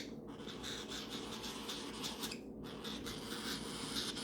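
Faint scratching and small clicks of parrots eating hand-feeding formula off a spoon, with a short pause about two and a half seconds in.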